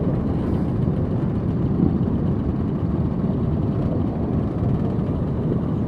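Motorcycle engines running steadily in a slow-moving group, a dense low rumble with no sudden changes.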